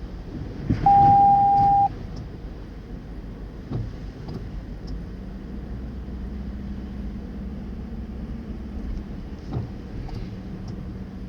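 A floodwater wave slaps against the car door and sets off the car's sensors: one loud, steady electronic beep about a second long, near the start. Then the car's engine drones at low speed as it wades through the water, with a couple of dull thumps.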